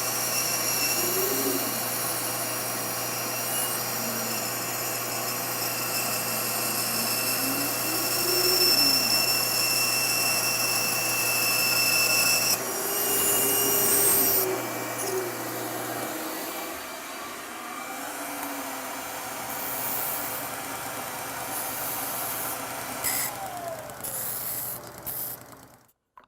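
A power tool running on wood with a steady motor hum and whine. The hum stops about two-thirds of the way through, leaving shorter spells of tool noise and a few knocks before the sound cuts off suddenly.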